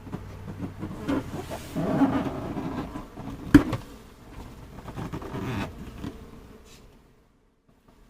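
A swarm of honeybees buzzing, with knocking and handling noises over the hum and one sharp knock about three and a half seconds in. The sound fades out near the end.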